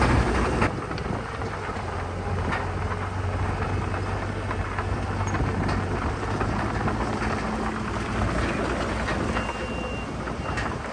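Bulldozer's diesel engine running steadily, under a dense crackle of dirt and rock being pushed and clanking from its tracks. The sound is louder for the first half-second, then settles to an even level.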